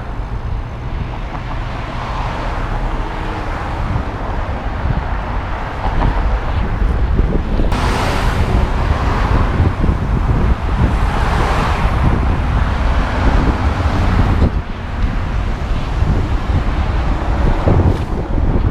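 Wind buffeting a head-mounted action camera's microphone as the bike is ridden, over road traffic noise, with louder swells about eight and eleven seconds in and again near the end.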